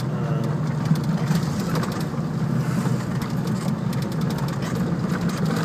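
Small car's engine running steadily at low speed, heard from inside the car as a low, even drone.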